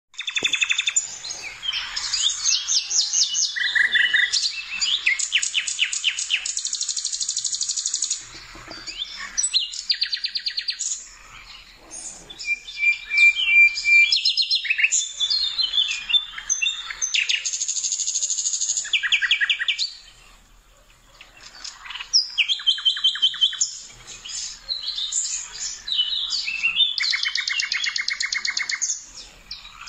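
Songbird singing in long phrases of rapid trills and chirps, the phrases separated by short pauses.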